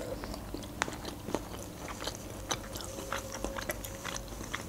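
A person chewing a mouthful of fried sausage close to the microphone, with many small wet mouth clicks scattered throughout.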